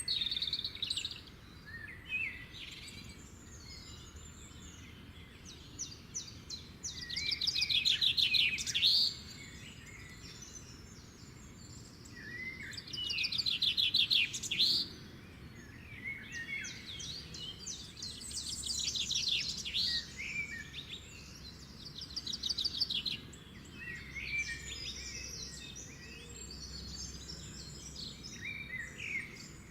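Several songbirds singing and calling, with fast trills that stand out about seven seconds in, again about twelve seconds in, and more softly around twenty seconds, over a faint steady low background noise.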